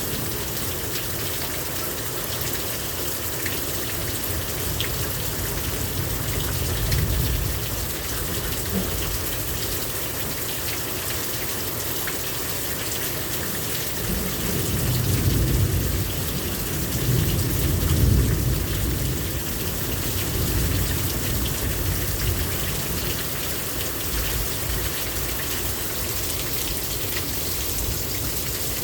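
Heavy rain pouring down steadily in a thunderstorm. Low rumbles of thunder swell about six seconds in and again, longer and louder, from about halfway through.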